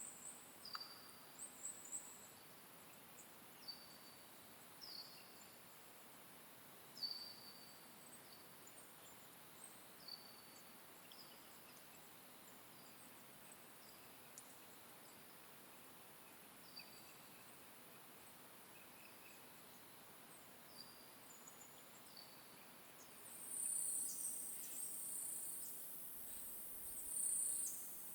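Forest dawn ambience: small birds giving short, high, down-slurred chirps every second or so over a faint background hiss. Near the end a louder, very high, shrill buzzing trill comes in.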